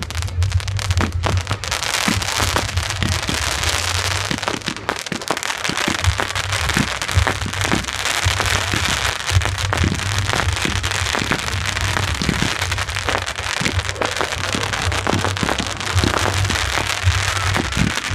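Fireworks going off: a rapid, continuous run of bangs and crackling over a dense hiss.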